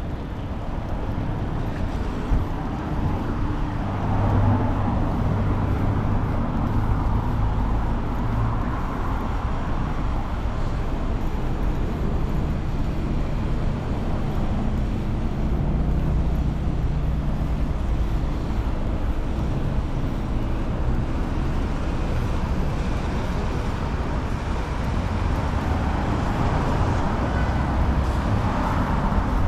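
Urban road traffic: motor vehicle engines running close by as a steady low rumble, with engine hum that swells about four seconds in and again in the middle.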